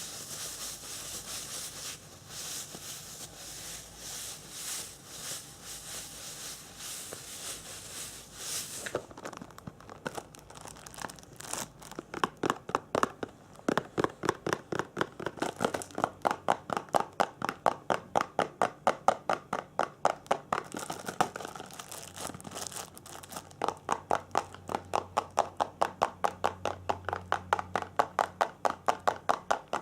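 Close-miked ASMR trigger sounds made by hand. First comes a crinkly, hissy rubbing for about nine seconds, then quick, even scratching or tapping strokes, about three a second, that run on to the end with a couple of short breaks.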